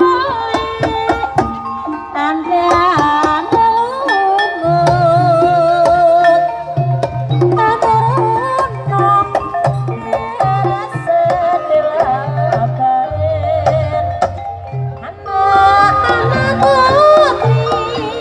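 Traditional Javanese-style ensemble music accompanying a Laisan performance: hand drums and pitched percussion under a wavering sung melody, with a repeating low bass pattern.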